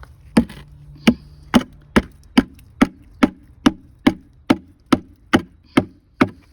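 Hard, evenly spaced knocks, about two and a half a second and some fourteen in all: a mixing bucket being knocked to empty fast-setting patching compound onto a crack.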